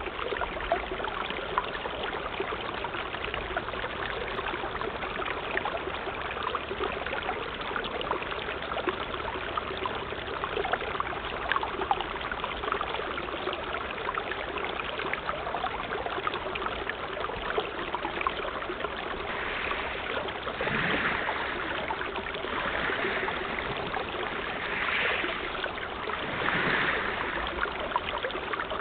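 Sea water washing and lapping, a steady splashing hiss with several louder swells late on.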